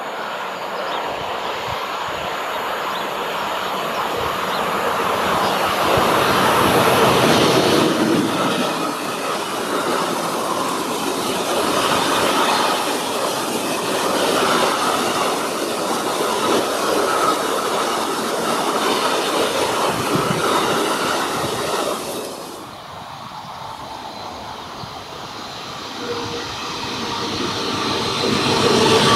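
A freight train of covered hopper wagons hauled by a diesel locomotive passes close by, its wheels running loudly over the rails. About two-thirds of the way through, the sound changes abruptly to a quieter one, an electric double-deck regional train approaching, which grows louder near the end.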